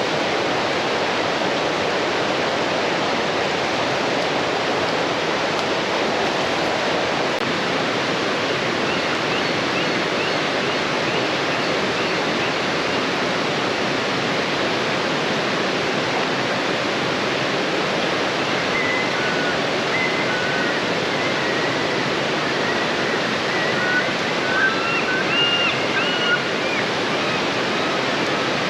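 Fast-flowing river rushing steadily over rocks, a constant full hiss of water. A few short high chirps sound above it in the last third.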